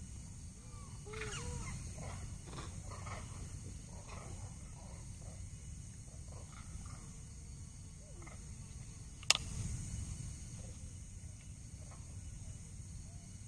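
Outdoor nature ambience: a steady high drone of insects under scattered short animal or bird calls and a few light knocks, with one sharp click about nine seconds in.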